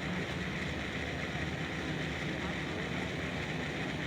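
Steady ambient background noise: a low rumble under an even hiss, with no sudden sounds.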